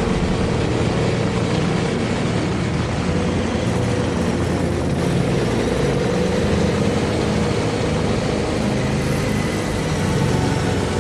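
KTM 1290 Super Adventure S V-twin engine running steadily as the motorcycle is ridden, heard from the rider's position.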